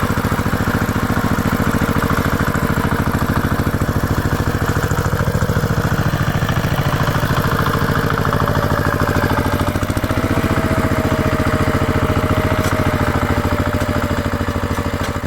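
Tractor engine running steadily at a low, even speed, with a rapid regular firing pulse; a faint whine joins in about halfway through.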